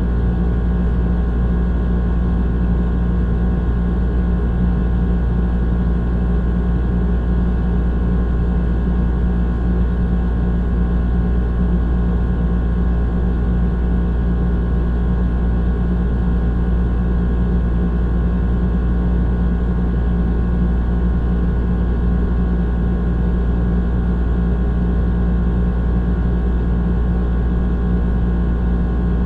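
Old air conditioner running steadily: a loud, deep, unbroken hum with a steady mechanical tone on top and a haze of fan noise.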